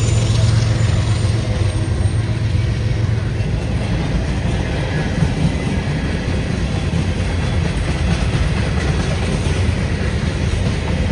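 Local freight train passing close by: its cars rolling past with a steady rumble and clatter. A low locomotive engine drone eases off in the first second or so.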